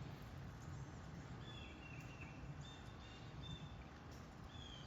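Faint series of short, high bird chirps starting about a second and a half in, some dipping slightly in pitch at the end, over a low steady background rumble.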